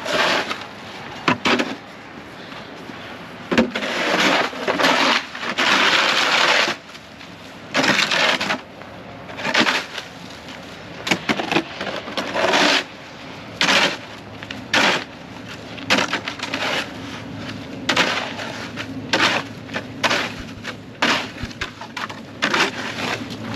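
A shovel chipping and scraping through a thick sheet of ice in repeated, irregular strokes. Short cracking hits alternate with longer scrapes as the ice breaks up, with one long scrape a few seconds in.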